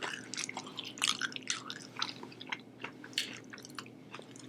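Close-up chewing of sushi: wet mouth smacks and soft squishy clicks, irregular, several a second.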